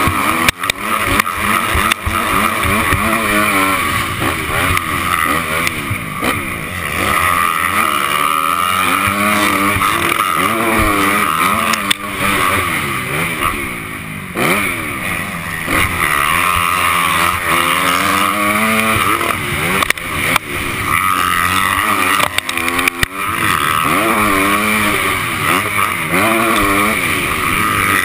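Honda 250 motocross bike's engine revving up and falling back again and again through the gears while ridden hard, with heavy wind rush on the mount and a few sharp knocks.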